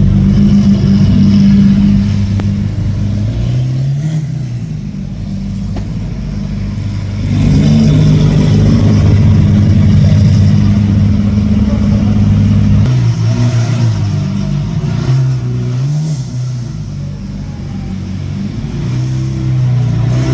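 Lamborghini Aventador's V12 engine running at low speed with short blips of revs, louder for a few seconds in the middle as the car pulls past, then falling back.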